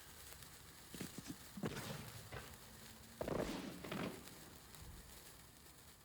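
Fireworks going off: a few separate bangs with short fading tails, the loudest about three seconds in.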